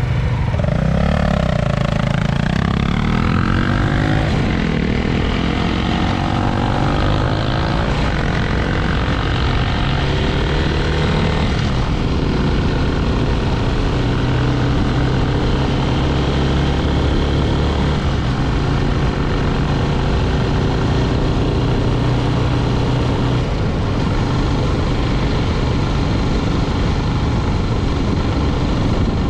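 Motorcycle engine under way, rising in pitch as it accelerates over the first few seconds, then running at a steady cruise, with wind noise rushing over the microphone.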